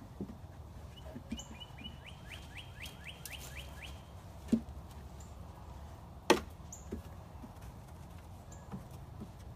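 A bird's quick trill of about a dozen falling chirps, then two sharp knocks about two seconds apart, the second the louder.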